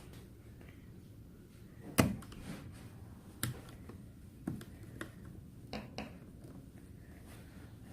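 Scattered clicks and knocks of an electric fan's plastic parts being handled during a part replacement, the loudest about two seconds in, then several lighter ones.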